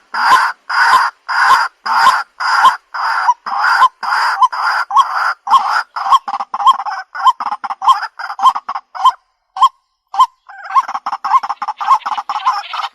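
White-breasted waterhen calls from a lure recording: loud, repeated croaking notes, about two a second at first, then quicker and shorter. After a brief pause about three-quarters of the way through, the notes come back denser and overlapping.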